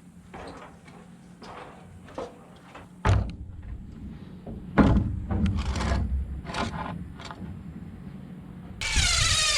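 Scattered knocks and a few heavier thumps of boards and tools being handled, then near the end a power drill running for about a second, driving screws into the roof stringers.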